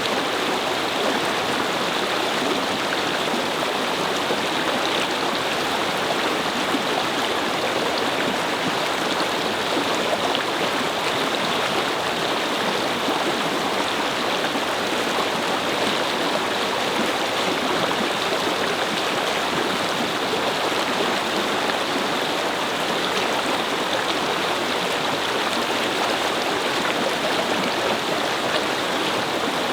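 A small brook babbling, its water flowing steadily over stones.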